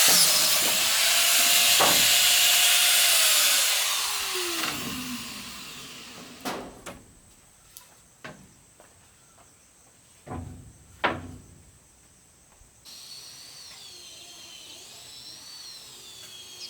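A handheld power tool running on wood, then spinning down with a falling whine as it is released, followed by several sharp knocks of wood being handled.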